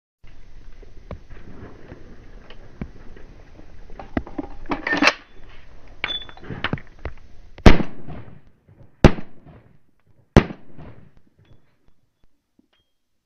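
Three handgun shots about a second and a half apart, each with a short echo, after a run of lighter clicks and knocks.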